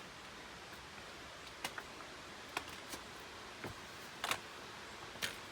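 Irregular sharp clicks and taps of a hiker moving over rock, about six in all, the loudest around four seconds in, over a steady faint hiss.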